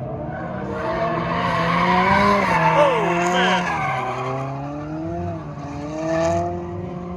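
Drift car on track, its engine revving up and down while its tyres squeal and skid, the squeal loudest in the middle.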